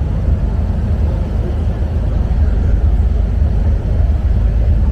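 Steady low rumble aboard a passenger ferry under way.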